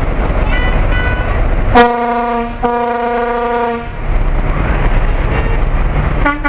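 Truck horns honking over a steady low rumble. There are two short high toots, then one long, loud horn blast of about two seconds with a brief break in the middle, and a quick run of short toots near the end.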